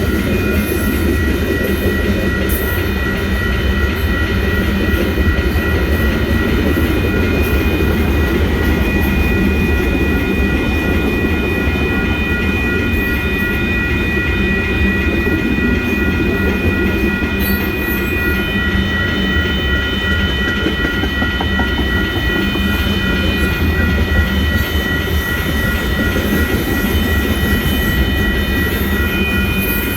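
Train passing at close range, its wheels rolling steadily over the rails with a continuous rumble and clickety-clack. A few steady high-pitched tones ring above it.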